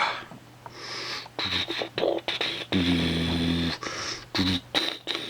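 Irregular scratching, scraping and clicking of a carded plastic blister package being handled and turned over. About halfway through, a steady low hum lasts about a second, with a shorter one soon after.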